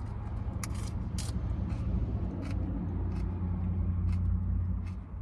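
Low vehicle engine rumble that swells after about two seconds and falls away near the end, with short crisp crunches over it, like lettuce being bitten and chewed.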